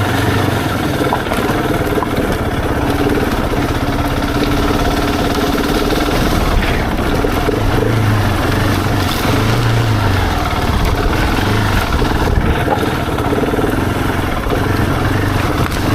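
Husqvarna 701's single-cylinder engine running at low revs, its note swelling and easing as the motorcycle is ridden slowly over a rough, stony lane.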